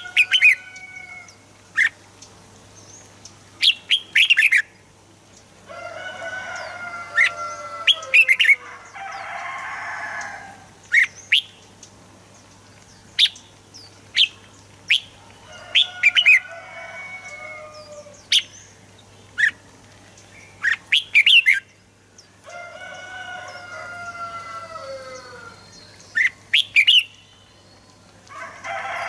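Red-whiskered bulbuls singing: loud, sharp, quick chirps between warbling phrases that fall in pitch and come every few seconds, with two short noisy rasping bursts. A faint steady hum runs underneath.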